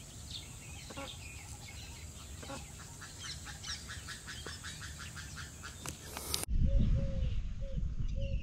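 Many wild birds calling and chirping over each other, with one fast run of repeated notes in the middle. About six and a half seconds in, the sound changes abruptly to a louder recording with a low rumble and a bird close by repeating a short low note several times.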